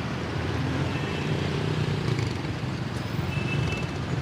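Steady road traffic noise: a low rumble of vehicle engines, with a faint high tone heard briefly twice.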